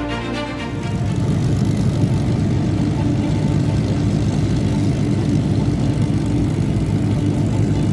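Piper L-4 light aircraft flying past, their propeller engines running steadily in a continuous low engine noise. A music track ends within the first second.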